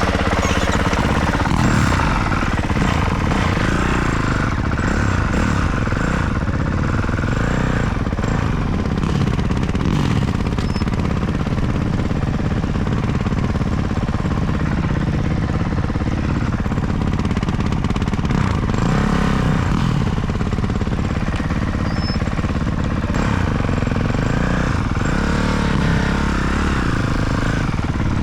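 Motocross dirt bike engine running hard, its pitch rising and falling over and over as the throttle opens and closes.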